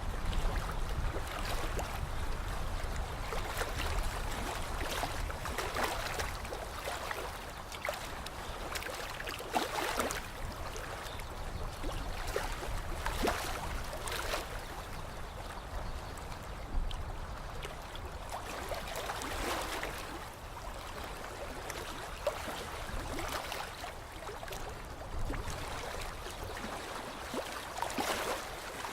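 Lake water lapping and splashing against the shore: a steady wash broken by irregular small splashes.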